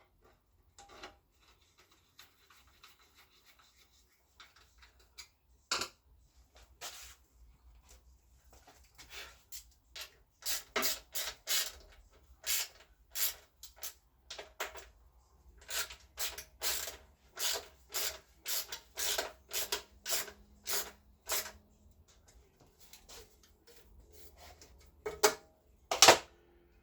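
Hand rubbing or scraping on a surface in a long run of short, even back-and-forth strokes, with a couple of sharper knocks.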